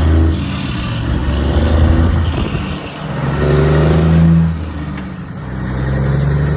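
Turbodiesel truck engine revving and accelerating, the engine note swelling twice, about three seconds in and again near the end.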